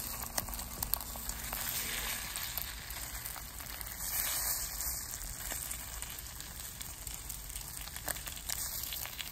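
Egg-coated, pork-stuffed perilla leaf pancakes (kkaennip-jeon) frying in oil over low heat: a quiet, steady sizzle with faint scattered crackles.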